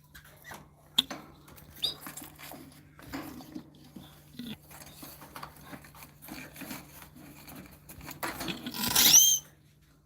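Small birds chirping now and then amid scattered rustling and light tapping, with a louder burst of high, sliding calls near the end. A steady low hum runs underneath.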